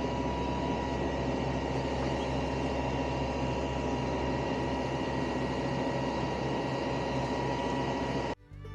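Mobile crane's engine and hydraulics running steadily with a constant whine. It cuts off abruptly near the end.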